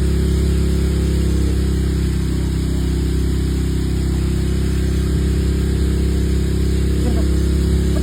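Steady hiss of water spraying from a film-set rain machine, over the constant hum of an engine running without change.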